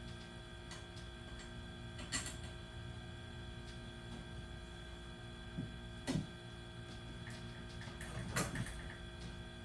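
A few short knocks and clatters of parts being handled during a garage door installation, the loudest near the end, over a steady hum.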